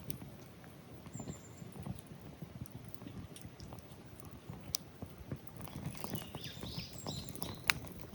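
Wood fire crackling, with irregular small pops and one sharp louder pop near the end; a few faint high chirps come in over it.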